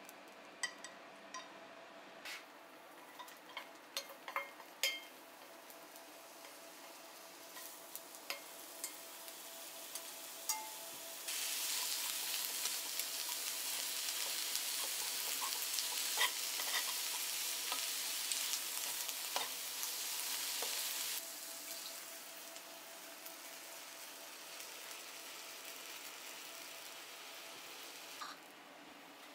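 Chopsticks clicking and scraping against a frying pan for the first ten seconds or so, then sliced onions sizzling in a hot pan as they are tossed with tongs. The loud sizzle starts and stops suddenly, about ten seconds long, and gives way to a softer sizzle with a few light clicks.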